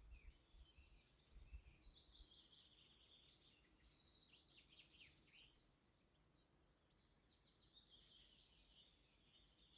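Faint songbird singing: rapid high trills and warbling phrases, one after another. A soft low rumble sounds in the first two seconds.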